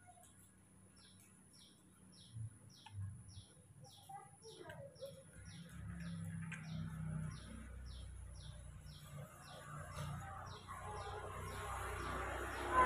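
A small bird chirping steadily, a run of short, high, falling chirps about three a second, with a short louder noise right at the end.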